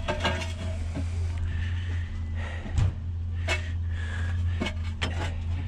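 Scattered knocks and clanks of scrap being shifted and handled, irregular and a few per second, the loudest a little under three seconds in, over a steady low hum.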